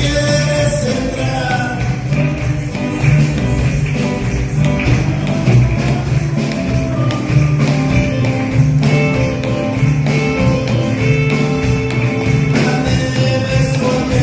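Live church gospel music from a band: a tambourine keeps a steady beat over a bass line and pitched instruments, with a voice singing near the start and again near the end.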